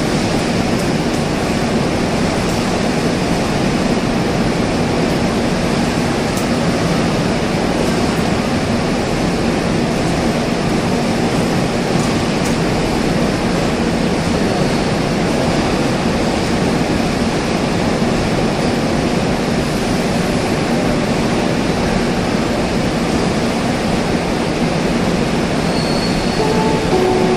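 Goods train of covered wagons rolling through a station platform: a steady rumble of wagon wheels on the rails.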